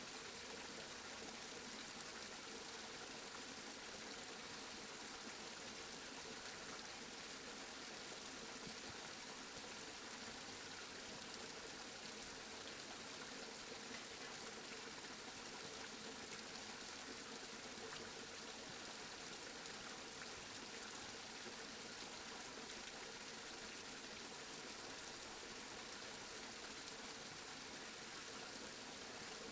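Steady rain falling, a faint, even hiss that does not change.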